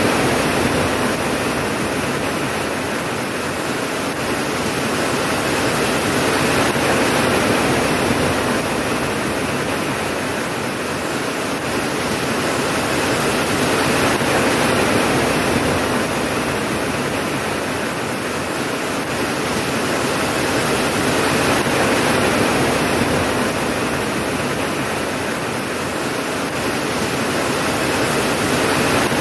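Steady heavy rain, a dense even hiss that swells and eases every seven or eight seconds, with no thunder.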